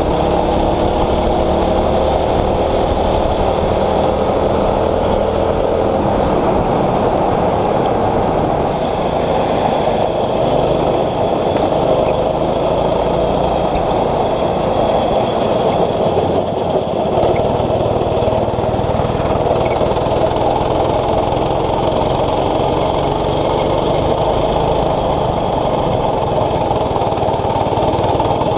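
Small 6.5 hp four-stroke kart engine running hard at racing speed, its pitch rising and falling as the kart accelerates and slows through the corners.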